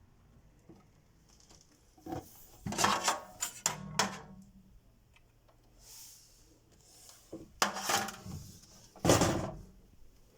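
Fittings of an old GEC fridge freezer clattering and knocking as they are handled, in about five bursts over a low steady hum.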